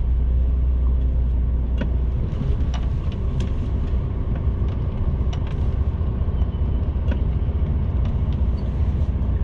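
HGV truck's diesel engine running at low revs, a steady deep rumble heard from inside the cab, with a few faint scattered clicks.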